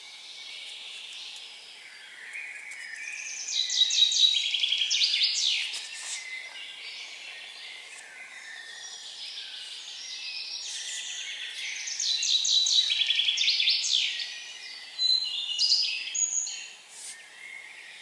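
A songbird singing two fast trilled phrases of rapid repeated notes, each lasting two to three seconds, the second starting about nine seconds after the first, with a shorter burst of song just after the second.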